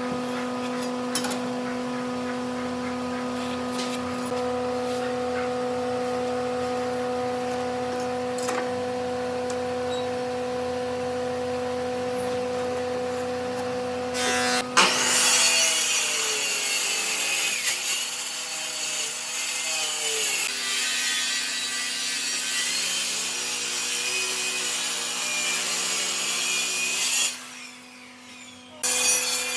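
A power tool's motor runs with a steady hum. About halfway through it starts cutting into wood with a loud, harsh rasping that lasts most of the rest, dropping off briefly near the end.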